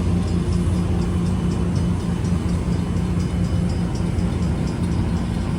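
An engine idling steadily, a low hum with faint high ticking about four times a second above it.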